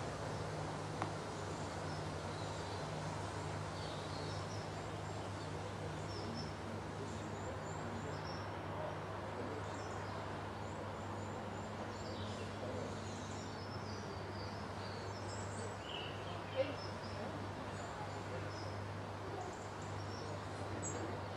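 Wild birds chirping and whistling in short, scattered high calls over a steady low hum and an even hiss, with one brief sharp click about three-quarters of the way through.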